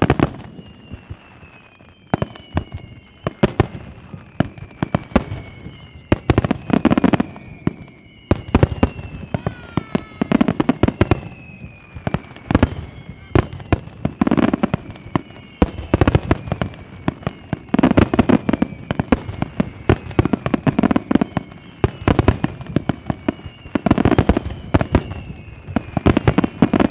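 Aerial fireworks display: rapid cracks and pops of many shells bursting, with a heavier boom every few seconds. Several high whistles run over them, each gliding slowly down in pitch.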